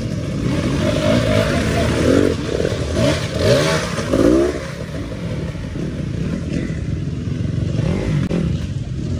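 Dirt bike engine running, its revs rising and falling several times in the first half.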